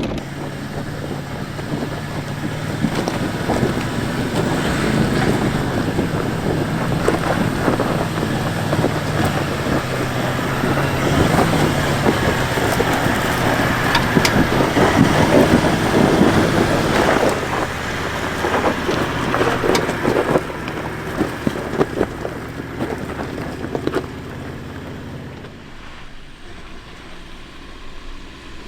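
Toyota LandCruiser 79 engine labouring in low-range four-wheel drive, first gear, up a steep loose track, with a rough crunching of the tyres over the ground and a little wheelspin. The effort is loudest midway and eases near the end.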